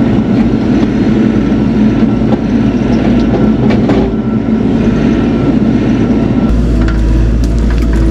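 Bobcat E42 mini excavator's diesel engine running under hydraulic load, with scattered short knocks and cracks. A deeper low rumble comes in suddenly near the end.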